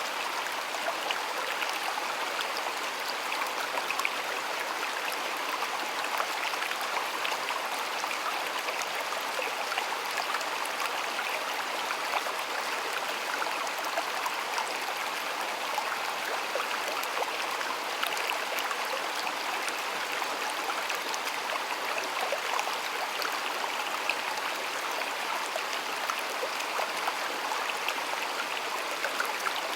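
Shallow stream water flowing steadily, with fine splashing and trickling.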